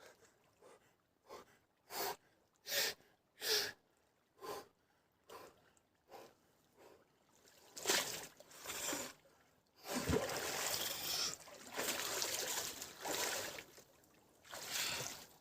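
A person bathing in a river: a run of short, sharp gasps, then longer stretches of splashing water in the second half.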